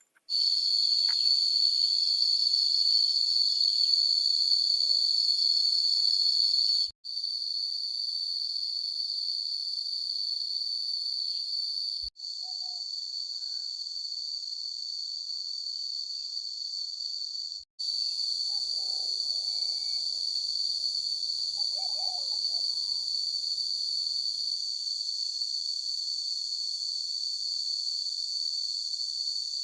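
Steady, shrill insect chorus of crickets or cicadas chirring, loudest in the first seven seconds. It cuts off abruptly and resumes three times, at about seven, twelve and eighteen seconds in.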